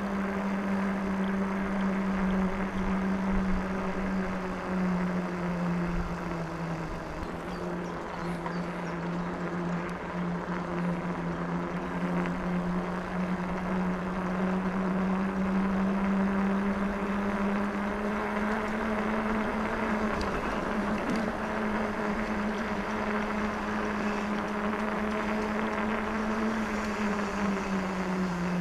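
Electric bike's motor whining steadily as it rides along, its pitch dipping and rising slightly with speed and dropping briefly near the end, over tyre and wind noise.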